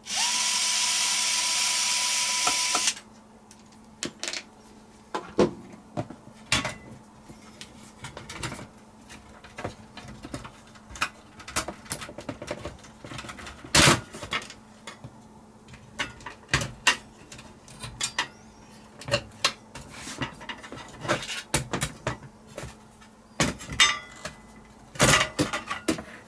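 A small power tool's motor runs for about three seconds with a steady whine and hiss, then stops. Scattered clicks and knocks of parts and tools being handled follow.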